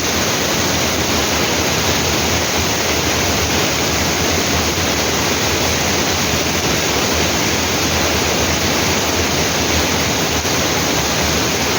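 Waterfall, water rushing and crashing in a loud, steady roar of noise.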